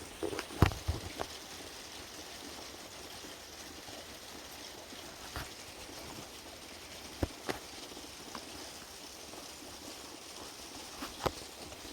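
Steady rain hiss with a handful of sharp taps, the loudest about half a second in and a few more scattered through.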